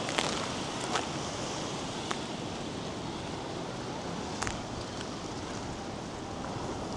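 North Sea surf washing steadily onto a sandy beach, with wind across the microphone and a few faint, short clicks.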